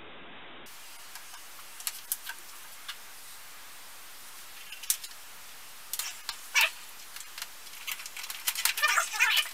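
Light scattered clicks and paper rustles from the band saw's instruction manual being handled on the bench, then a brief cluster of small metallic clicks and squeaks near the end as the benchtop band saw's upper blade guide is worked by hand.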